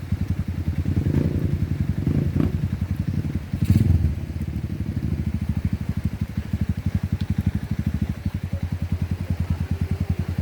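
Honda CRF150L's single-cylinder four-stroke engine running at low speed, its exhaust pulses evenly spaced. About four seconds in comes a louder, rougher burst.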